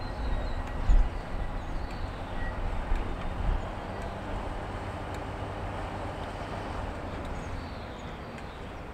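Train running on the rails: a steady low rumble, with heavier thumps about a second in and again about three and a half seconds in.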